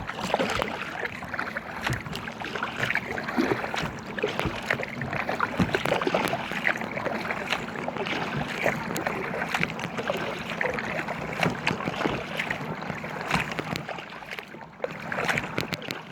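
Water splashing and lapping around an inflatable kayak on the river, with many small irregular splashes and some wind.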